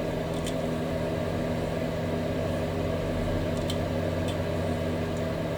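Steady machine-like hum at an even level, with a few faint light ticks.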